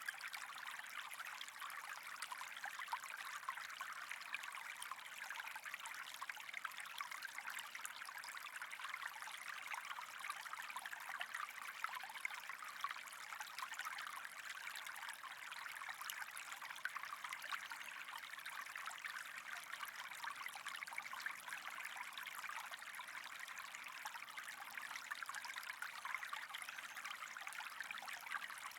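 Steady trickling of running water, an even fizzing hiss with fine crackles and no breaks.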